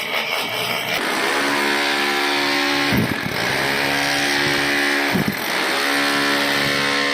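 A power tool's motor running steadily, its pitch dropping sharply and recovering twice as it is loaded.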